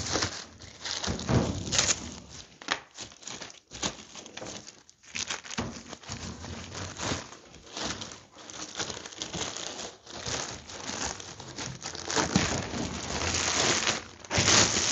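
Wrapping on a sheet of oiled cold-rolled 20-gauge steel being torn and crumpled open, an irregular rustling and crinkling that comes and goes.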